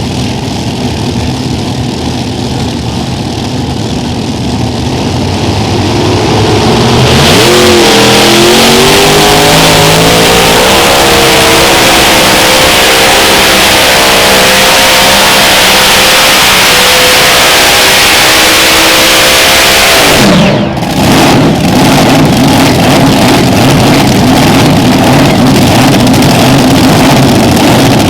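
Unlimited modified pulling tractor's engines idling low, then opened up about seven seconds in, climbing quickly in pitch and held at full throttle. About twenty seconds in the pitch drops sharply as the throttle comes off. A loud, rougher, noisier running sound carries on after that.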